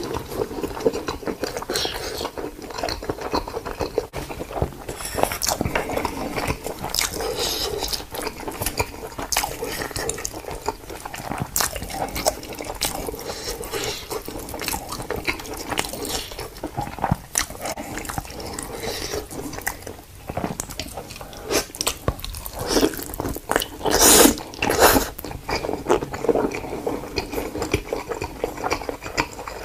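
Giant panda biting and chewing food, with irregular crunching and wet chewing sounds, a louder run of crunches about three-quarters of the way through.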